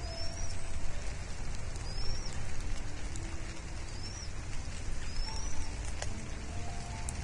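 Steady rain with a bird's short, high chirps, four of them a second or two apart, each rising then dropping in pitch. A sharp tick about six seconds in.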